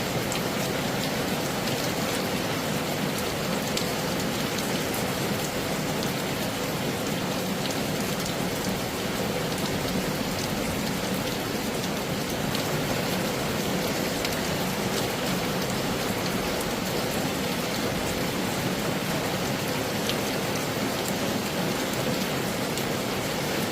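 Heavy rain falling steadily, an even rushing hiss with scattered individual drop ticks.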